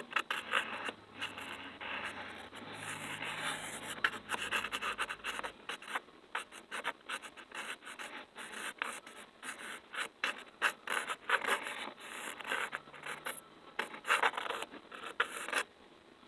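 Close-up ASMR tapping, rubbing and scratching on an object: a dense, irregular run of quick taps and scratchy rubs that stops shortly before the end.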